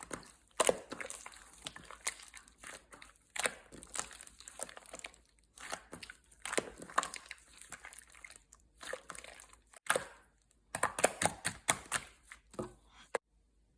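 Clear slime being squeezed and worked by hand, making an irregular run of sharp wet pops and crackles. It stops suddenly near the end.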